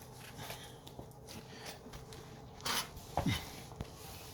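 Rustling and scraping of a person getting down and shifting about, with a couple of louder scuffs about three seconds in, one with a short low falling sound.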